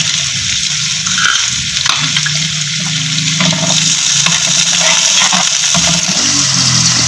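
Chopped onions and carrots sizzling in hot oil in a pan, stirred with a wooden spoon.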